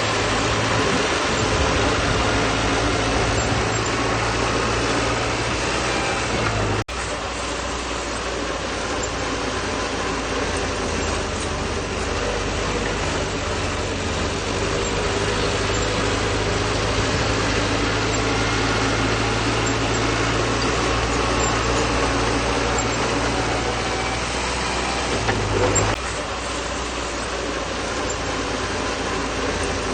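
Bulldozer's diesel engine running steadily under work, with the sound changing abruptly twice, about a quarter of the way in and near the end.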